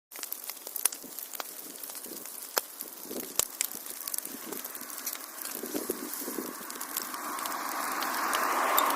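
Wood fire crackling, with frequent sharp pops over a steady hiss. The sound cuts in abruptly at the start, and the hiss swells louder toward the end.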